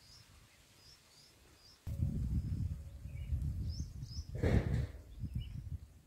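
Faint, short high bird chirps repeating among the leaves. About two seconds in, a loud, uneven low rumbling noise starts suddenly and runs on, swelling briefly a little later.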